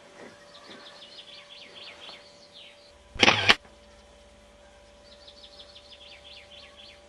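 Birds chirping faintly in a quick series of short calls, twice, over a faint steady hum. About three seconds in there is a brief loud burst of noise from the camcorder where the recording cuts to a new shot.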